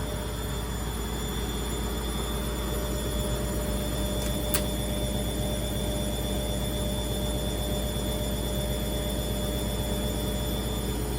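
Indesit Innex washing machine in its spin cycle: a steady drum spin with a whine over a low hum, the loud spin noise that is the machine's fault. A single sharp click about four and a half seconds in.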